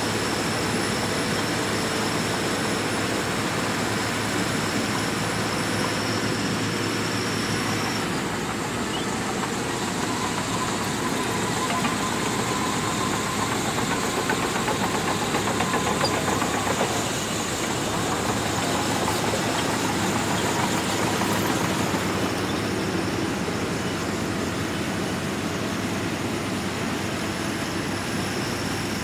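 Shantui DH17C2 crawler bulldozer's diesel engine running steadily under load as it pushes sand, with a thin high whine that drops out for a stretch in the middle.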